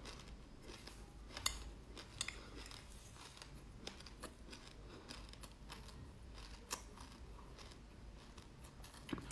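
Black sesame seeds being crunched and chewed close to the microphone: irregular sharp crackles and clicks, with a few louder snaps.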